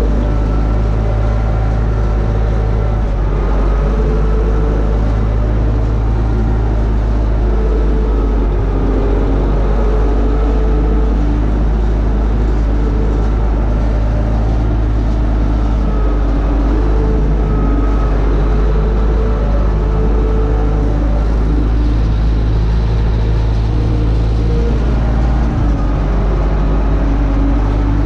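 UTB Universal 650 tractor's four-cylinder diesel engine running steadily under load while pulling a disc harrow through a field, with a loud low hum that holds even throughout.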